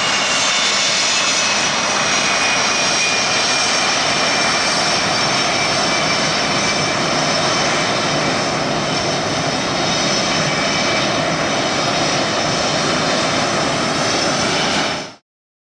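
Loud, steady jet noise from a Blue Angels F/A-18 Hornet's twin turbofan engines, with a high whine slowly falling in pitch. It cuts off abruptly near the end.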